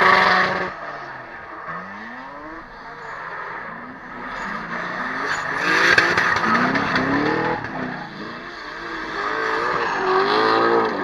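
Drift cars' engines revving hard, the pitch repeatedly rising and falling as the throttle is worked, over the hiss of tyres sliding and squealing. The sound swells loudest at the start, about six seconds in and near the end.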